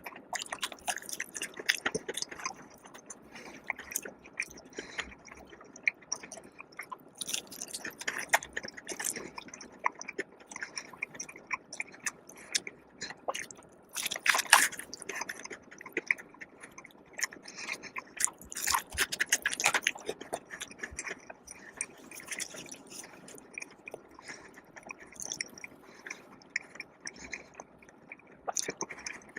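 Close-miked chewing and biting of food, with wet mouth clicks and smacks and a few louder bursts of crunching near the middle.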